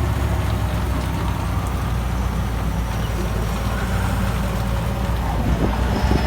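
Tractor engine running steadily, with heavy rain falling.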